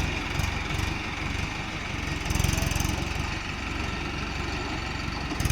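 Mahindra Arjun 555 tractor's diesel engine running, a steady fast low thudding that swells a little about halfway through and again near the end.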